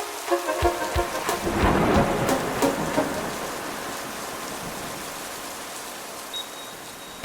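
A thunderclap with a rolling rumble, fading into a steady hiss like rain, as the background music's beat drops out.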